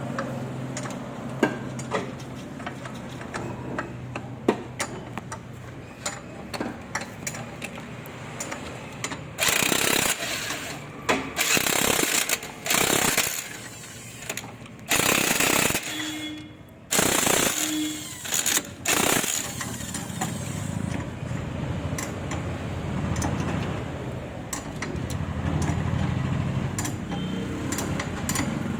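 Pneumatic impact wrench firing in several loud bursts of about a second each, with scattered clicks and clinks of metal tools before and after.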